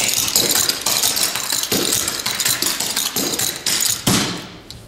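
Clogging taps on dance shoes striking a hard floor in a fast run of rapid clicking footwork, dying away near the end.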